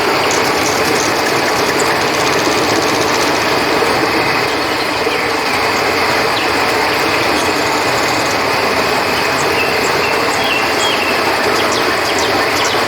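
Steady rush of flowing river water, with crickets chirping in short repeated notes above it.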